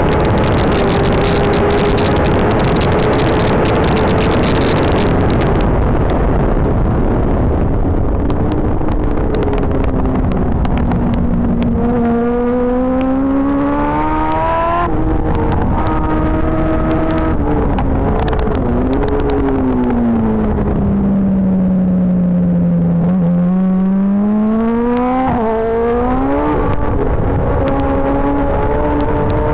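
A racing superbike's engine heard on board at track speed. It pulls hard at first under heavy wind rush, then the revs drop as it brakes into corners and climb again through quick upshifts, twice over.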